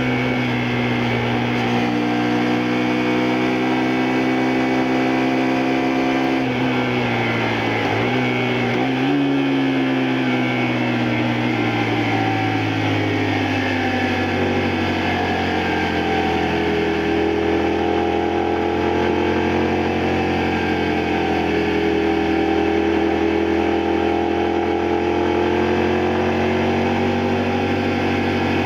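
Honda Varadero XL125V's 125 cc V-twin engine under way on the road, holding steady revs. About 7 and 8 seconds in it twice briefly drops and picks up again, then its pitch falls over several seconds as the bike slows, and it runs on at lower revs that rise and fall gently.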